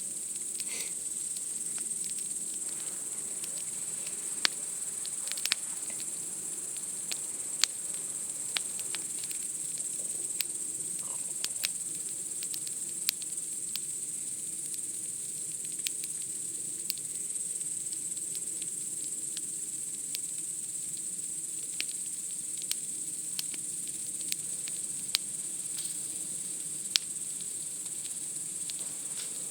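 A steady high-pitched chorus of night insects chirring without a break, with the sharp pops and crackles of a wood campfire every second or so.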